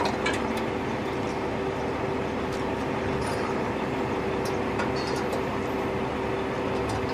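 Heavy tow truck's engine running steadily with a low rumble and hum, with a few light metallic clicks and clanks as the float trailer's gooseneck is coupled back on.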